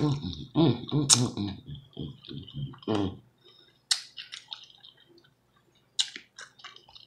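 Close-up mouth sounds of a person eating a mouthful of noodles: chewing with wet smacks and sharp clicks. For about the first three seconds there are hummed, voice-like mouth noises, after which only scattered clicks remain and these fade out.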